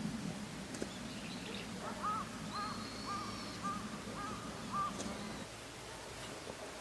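A crow cawing six times in a quick, even series, over a steady low hum.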